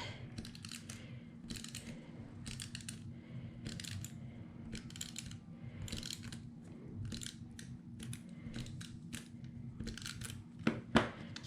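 A pen drawing short dashes on paper: a string of quick, faint scratchy strokes, roughly one or two a second.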